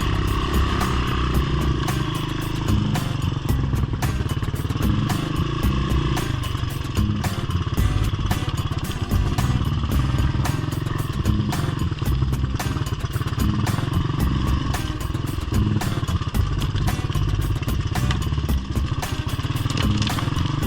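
Small single-cylinder four-stroke engine of an off-road minibike or ATC running steadily under way, with a rattling clatter from the ride.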